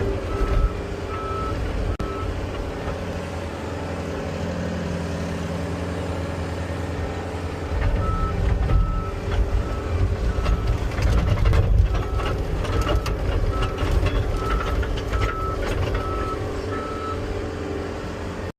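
A vehicle backup alarm beeping in a steady series of short tones over a diesel engine running. The beeping sounds briefly at first, then returns about eight seconds in as the engine grows louder, with a few clanks in the middle.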